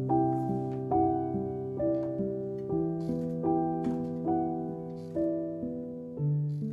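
Soft solo piano music: single notes struck about two a second, each ringing and fading, over held bass notes.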